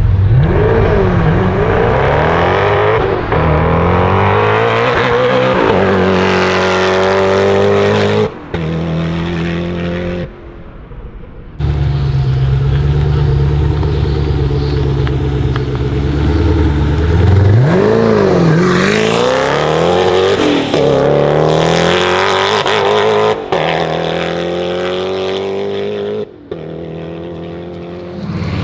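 Koenigsegg Agera RS's twin-turbo V8 with a titanium exhaust, revved repeatedly while standing, its pitch climbing and dropping again, with a stretch of steady idle in the middle. Near the end it is heard from farther off.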